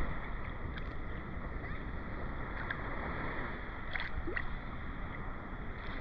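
Ocean water washing and lapping at the beach: a steady wash, heaviest in the low end, with a few faint short high chirps.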